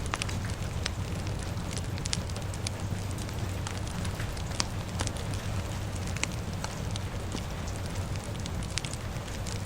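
Fire crackling with scattered sharp pops over a steady low rumble and a hiss of rain.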